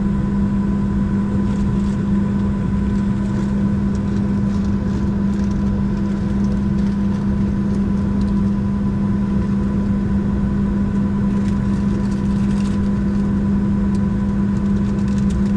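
Steady cabin drone of a Boeing 737-700 on the ground with its CFM56 engines at idle before takeoff: a constant low hum with a few fainter steady tones above it. Light ticks and rattles come through now and then.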